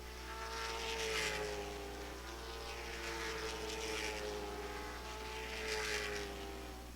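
Late model stock cars' engines running around the track as a continuous wavering drone, swelling louder three times as cars go past.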